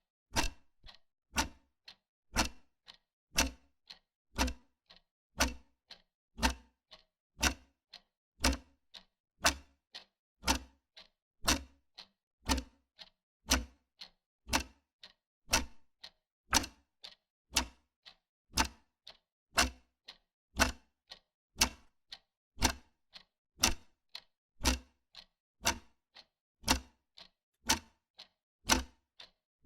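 Wall clock ticking steadily, about one sharp tick a second.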